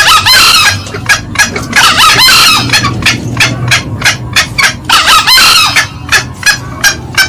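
Green junglefowl calling: a rapid run of short, sharp cackling notes, about two to three a second, broken three times by a longer, louder call. It is a loud lure call of male and female birds together.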